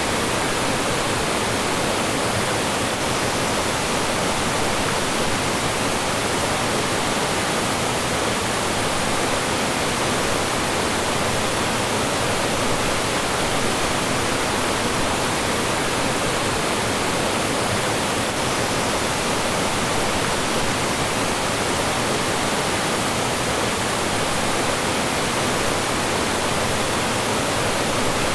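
Mountain stream rushing and splashing over rocks in a steady, even wash of water noise.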